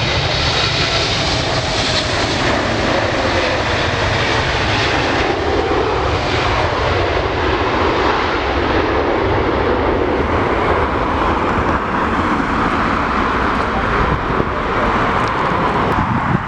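Jet airliner's engines passing close, a loud steady rush with a high whine that fades over the first few seconds. A gusty low rumble of wind buffets the microphone underneath.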